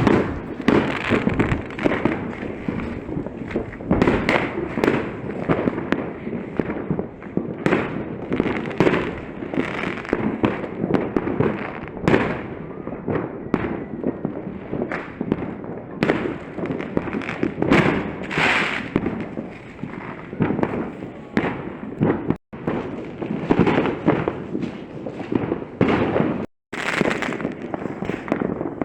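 Fireworks display going off: a loud, continuous barrage of bangs and crackles in quick, irregular succession. The sound cuts out completely for an instant twice in the last third.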